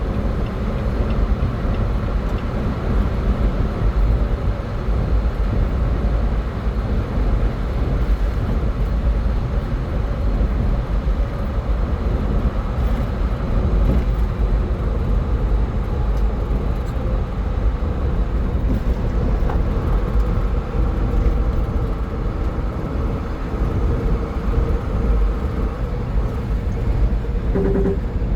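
A car driving at highway speed: a steady, loud rumble of tyre and engine noise. A short tone sounds near the end.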